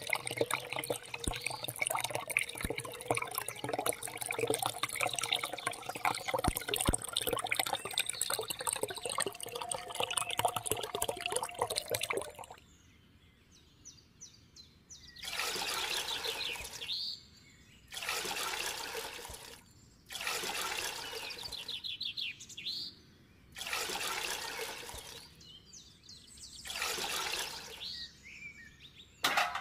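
Water splashing and trickling, dense with small clicks. About halfway through it changes to spurts of about a second and a half, with short silent gaps between them.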